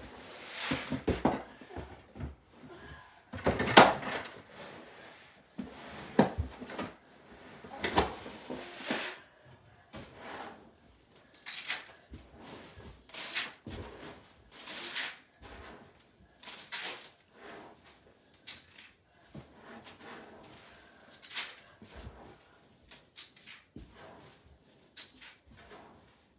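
Irregular knocks, clatters and rustling of objects being handled and moved about in a small room, one every second or two, the loudest about four seconds in.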